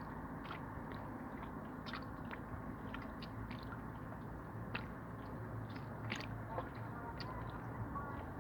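Sea waves washing steadily, with many small irregular crackling clicks over the wash, a few louder near the end.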